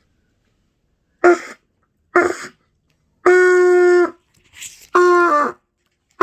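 Trumpet blown by a learner practising tone production. Two short, airy blasts come first, then a clear note held just under a second, then a shorter note at the same pitch that sags downward as it stops.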